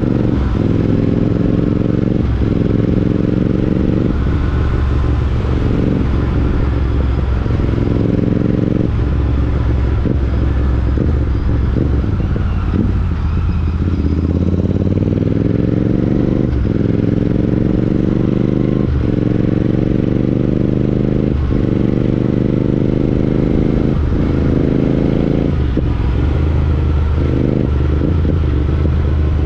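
Royal Enfield Interceptor 650's parallel-twin engine through a Chris Michael aftermarket exhaust, pulling up through the gears. The pitch rises, then drops at each shift. It eases off for a couple of seconds about twelve seconds in, then accelerates through the gears again.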